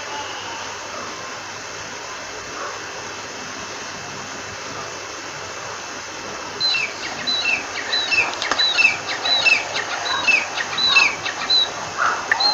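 A steady hiss of background noise, then about halfway in a francolin (teetar partridge) starts calling: a fast series of shrill, repeated two-part notes, about two a second.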